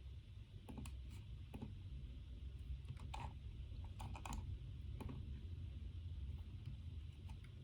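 Irregular, sparse keystrokes and clicks on a computer keyboard, over a low steady room hum.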